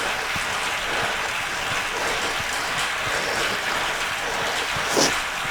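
Bicycle on an indoor trainer ridden hard at high cadence: a steady whir and hiss of the drivetrain and trainer, with a short louder sound near the end.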